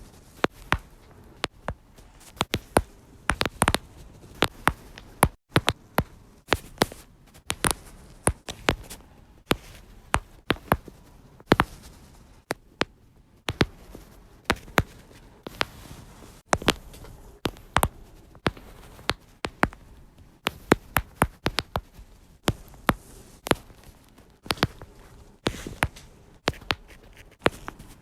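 Lower-back joints cracking and popping: a long run of sharp cracks at irregular intervals, often one or two a second, sometimes in quick clusters.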